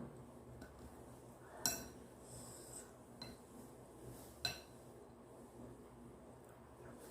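An eating utensil clinking against a dish twice, a few seconds apart, each with a brief ringing tone, over faint breathing.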